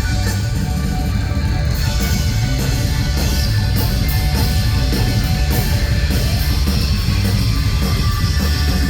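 Rock band playing live at full volume: distorted electric guitars over a driving drum kit with steady cymbal strokes.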